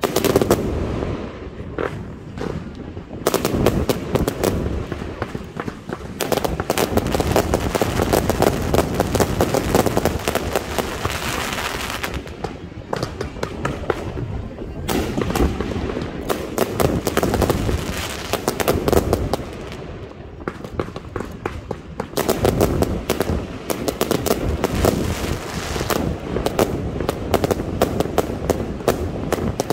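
Fireworks display: a dense, rapid barrage of bangs and crackling bursts, easing off briefly about 12 seconds in and again about 20 seconds in before building back up.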